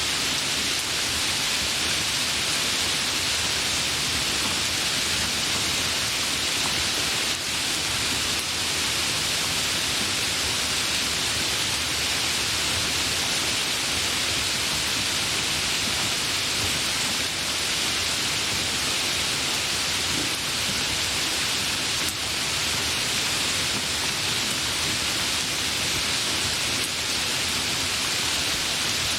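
Steady rain falling, an even hiss with no lulls or single loud drops.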